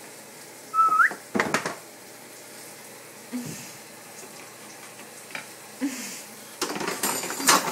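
Metal spoons and cutlery clinking and clattering in a dishwasher rack as a toddler handles them, with a single clink about a second and a half in and a dense run of clattering near the end. A short rising squeal comes just before the first clink.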